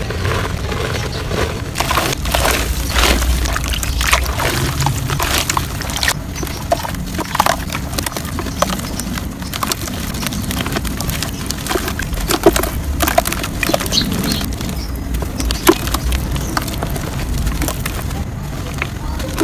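Lumps of soft dirt crumbling and crunching, with dense, irregular crackles and snaps.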